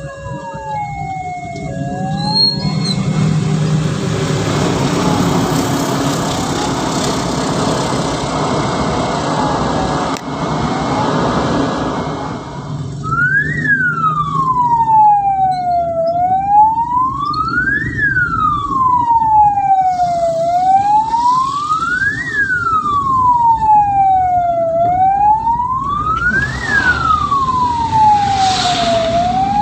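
Ambulance siren and vehicle road noise. A siren tone falls away in the first couple of seconds, and a steady rush of road and engine noise follows. About halfway through, the siren starts a slow wail that rises and falls about every four and a half seconds.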